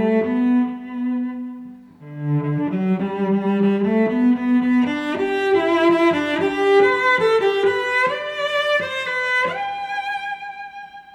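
Music: a bowed string instrument playing a slow melody of held notes, pausing briefly about two seconds in, then climbing and ending on a long held note that fades away.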